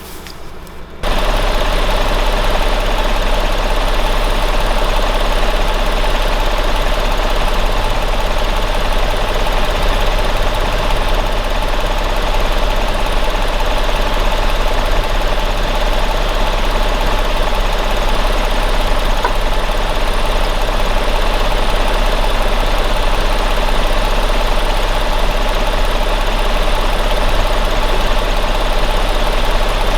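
Valtra T191 tractor's diesel engine running steadily while pulling a plough, cutting in abruptly about a second in and holding an even, loud drone.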